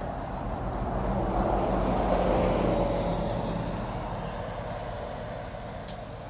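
Motorboat passing on the river: a steady engine hum that swells to its loudest about two seconds in, then slowly fades away.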